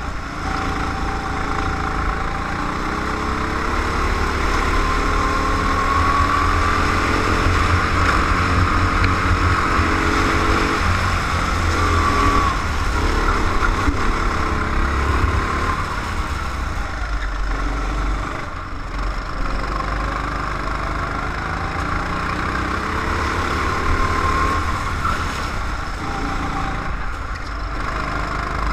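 Go-kart engine running on track, its pitch rising and falling as the kart speeds up and slows down.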